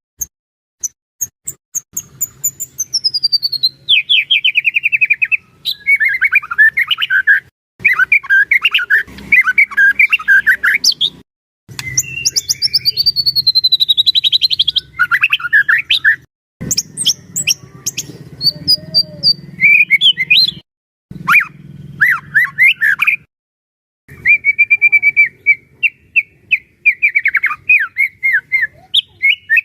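White-rumped shama (murai batu) singing a full, loud song: whistled notes sliding down in pitch run into fast chattering trills, in phrases of a few seconds separated by brief pauses.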